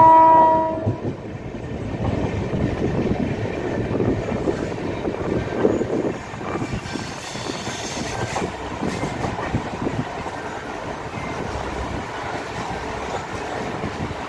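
Passenger train running at speed, heard from an open coach door. The train horn's blast ends about a second in. After that comes the steady rumble and clatter of the wheels on the rails.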